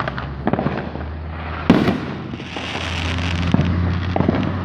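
Fireworks going off: a few sharp bangs, the loudest about 1.7 s in, with a crackling hiss about a second later and smaller pops near the end.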